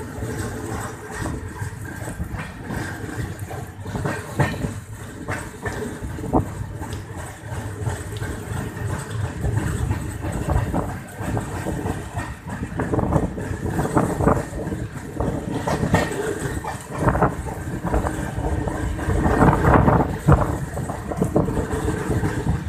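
Moving passenger train heard from an open coach doorway: a steady running rumble with irregular sharp clacks of the wheels over rail joints and points.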